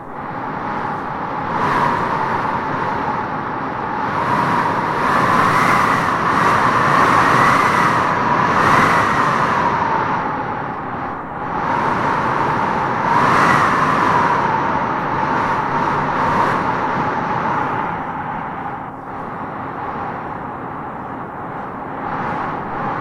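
Howling wind gusting through trees: a steady rushing noise with a whistling howl that rises and falls, swelling strongest in gusts about a quarter and again about halfway through, then easing toward the end.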